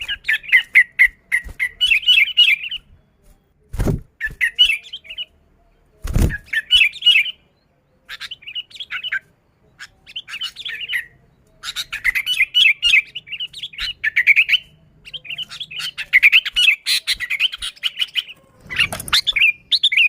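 Sooty-headed bulbul singing in repeated bursts of rapid, chattering phrases, with short pauses between them. Two sharp knocks come about 4 and 6 seconds in.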